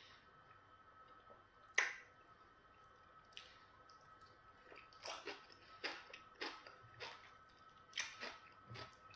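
Close-miked mouth sounds of a person eating pounded yam and okra soup by hand: sharp, wet lip smacks and clicks while chewing, a couple of single ones early, then about two a second through the second half.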